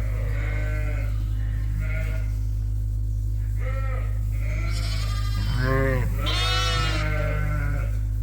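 Sheep bleating in a barn: ewes and lambs calling over and over as they search for each other, with a loud, high-pitched call a little after six seconds in. A steady low hum runs underneath.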